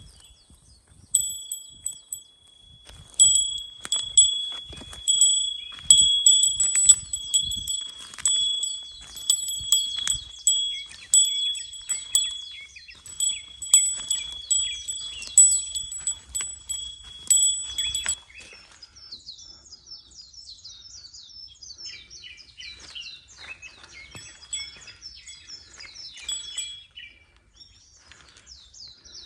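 A small metal bell jingles over and over in an uneven rhythm, and low thumps come with it, until it stops about 18 seconds in. Wild birds then sing in quick warbling phrases.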